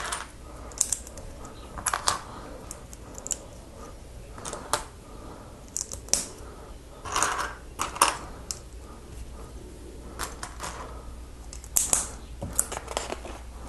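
Lego plastic pieces clicking and clattering as they are handled and pressed together, in irregular sharp clicks with a few short rattles.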